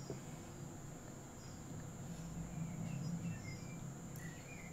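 Quiet room tone with a steady low hum, and faint bird chirps from the background as a few short, high, scattered calls.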